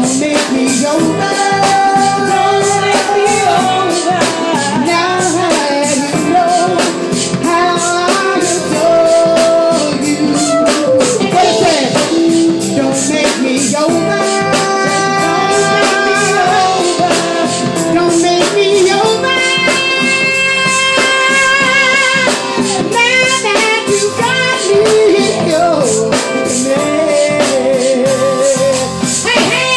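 Live band music with a singer's wordless held notes and runs that waver in pitch, over guitar and drums.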